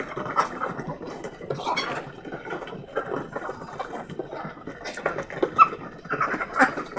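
Chickens in their pen: a steady clatter and rustle of birds moving and pecking, with a few short clucking calls scattered through.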